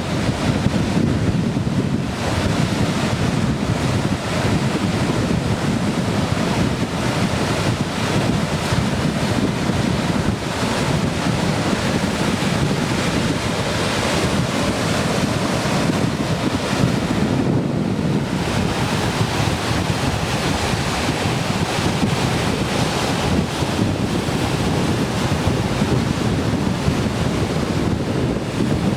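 Ocean surf breaking continuously, raised by the swell of Typhoon No. 6, with wind buffeting the microphone.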